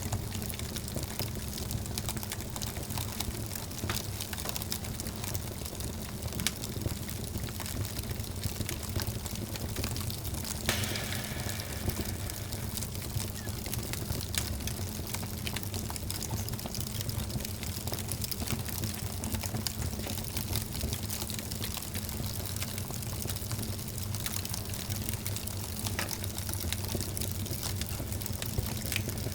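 Wood fire burning in a fireplace: a steady hiss with frequent small crackles and pops, and a louder crackle about eleven seconds in.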